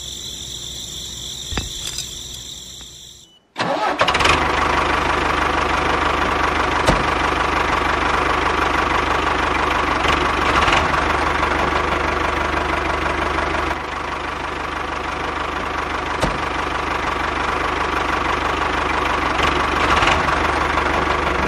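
A motor running steadily. About three and a half seconds in, after a brief dropout, it comes back louder and fuller with a constant low hum.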